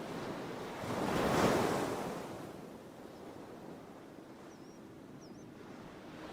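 Sea waves: one wave breaks and washes in, swelling to a peak about a second and a half in and fading, followed by a quieter steady wash of surf. A couple of faint high chirps come near the middle.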